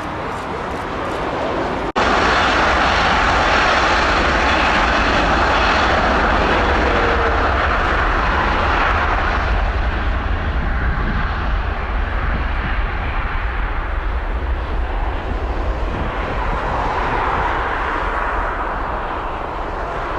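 Jet airliner passing at close range, its engines running loud: a steady low rumble with a strong hiss that cuts in suddenly about two seconds in. The higher hiss dies down from about ten seconds in, while the rumble carries on.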